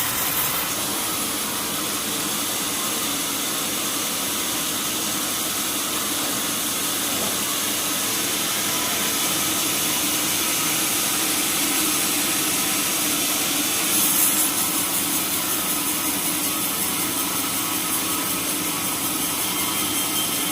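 Sawmill machinery running steadily, with a brief louder surge about 14 seconds in.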